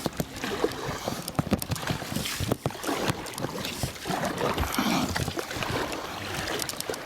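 A small rowing boat being rowed: oars dipping and splashing in the water, with repeated short knocks and wind on the microphone.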